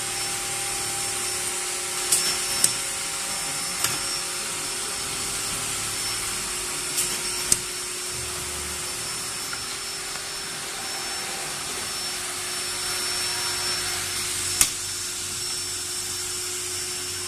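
Automatic wide-area industrial sewing machine running with a steady motor hum and hiss, broken by a few sharp mechanical clicks.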